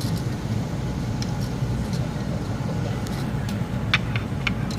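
Steady low rumble of a truck's engine, with a few light clicks about four seconds in.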